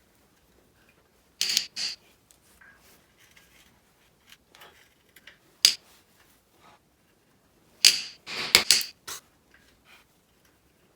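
Metal hand tools clinking and clanking against engine parts during an engine teardown: a couple of sharp clicks, a single one, then a quick cluster of several clanks near the end.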